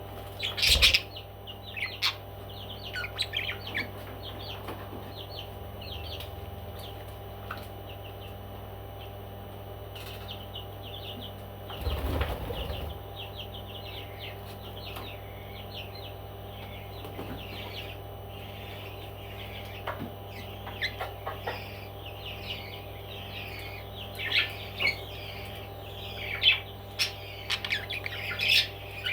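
Parrots chirping in many short calls, heaviest near the start and again in the last few seconds. There are louder noisy bursts about a second in and around twelve seconds in, over a steady low hum.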